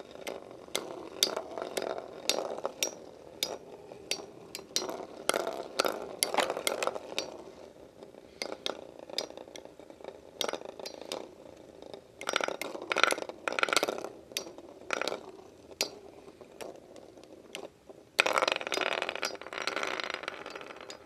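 Lightning L-Drago 100HF and Burn Fireblaze 135MS metal Beyblade tops spinning in a plastic stadium: a steady whir with repeated sharp clinks and scrapes as the metal wheels strike each other and the stadium wall. The clinks come in clusters, with a denser, louder run of hits near the end.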